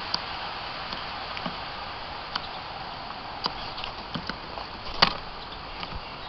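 Steady outdoor background hiss with scattered sharp clicks and taps, the loudest about five seconds in.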